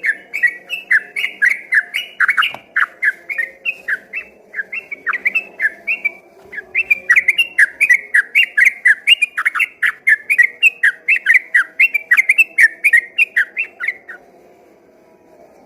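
Yellow-vented bulbul (trucukan) singing a long, rapid run of loud whistled notes, about three a second without a break, which stops near the end. The song is of the kind that can be mistaken for a straw-headed bulbul (cucak rowo) from a distance.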